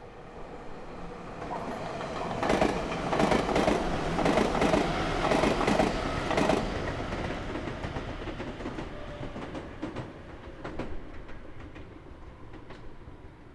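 A Meitetsu Nagoya Main Line electric train passing: a rumble that builds, peaks for a few seconds with wheels clacking over rail joints, then fades as the train moves away.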